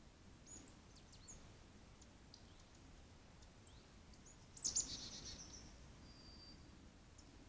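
Faint short, high chirps and calls of small woodland birds over a steady low background rumble, with a louder quick cluster of chirps a little past halfway, followed by a brief steady whistle.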